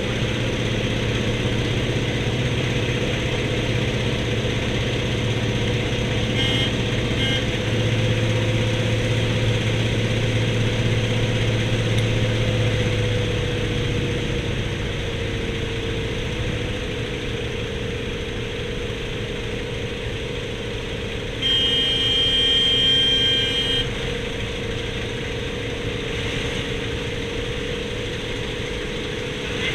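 An-2 biplane's nine-cylinder radial engine droning steadily as heard from inside the cabin, its pitch settling a little lower about halfway through. About three-quarters of the way in a loud high-pitched buzzing tone sounds for about two seconds over the engine.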